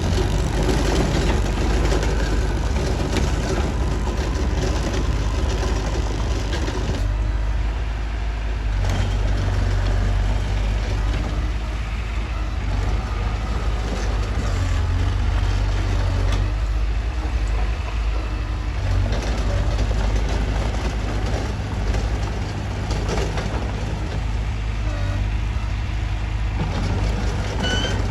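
Mitsubishi bulldozer's diesel engine running steadily and heavily at work, with a brief slight easing about seven seconds in.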